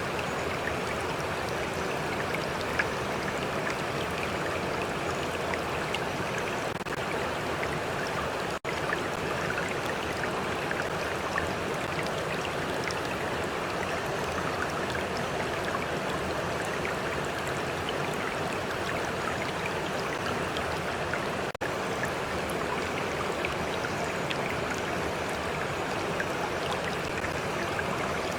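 Stream water flowing steadily, with small trickles and splashes dotted through it. The sound cuts out for an instant twice, about a third of the way in and again about three quarters of the way in.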